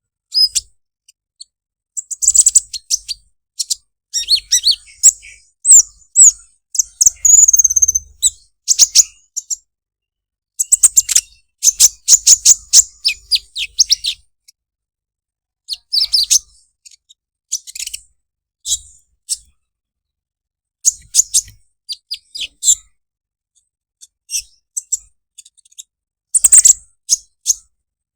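Sunbird (the 'kolibri ninja' of Indonesian bird-keepers) giving its 'krecek krecek' call: bouts of rapid, high, chattering chirps, each lasting about a second or two, separated by short pauses.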